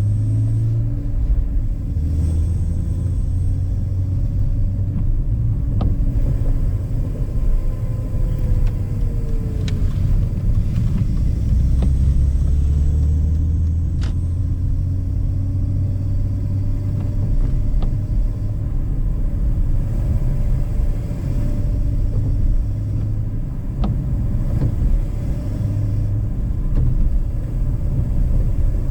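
BMW E46 inline-six engine, fitted with a K&N intake, running under light load while driving, over a steady low road rumble; the engine note rises and falls gently a few times with no hard revving.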